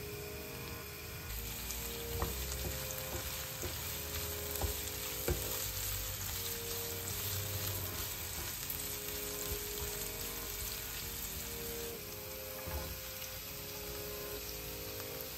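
Sliced red onion sizzling in hot oil in a ceramic-coated frying pan: a steady hiss, with a few sharp taps and scrapes from a wooden spatula stirring it.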